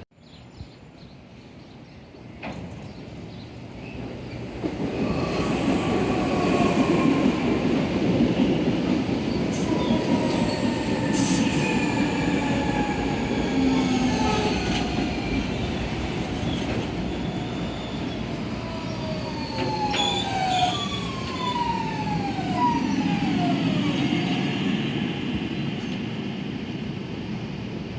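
Electric commuter train running through on the rails. Its rumble builds from about four seconds in and stays loud, with high squealing and whining tones sliding in pitch over it.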